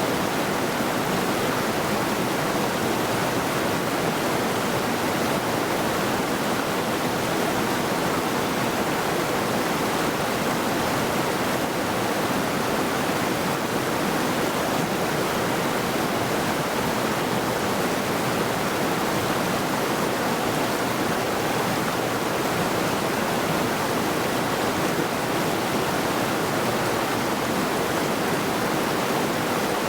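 A mountain river rushing steadily over rocks, an even, unbroken rush of water.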